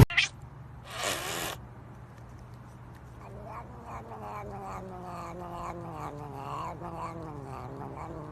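A cat yowling: a long, drawn-out low call that begins about three seconds in and slowly falls in pitch. A short burst of hiss-like noise comes about a second in.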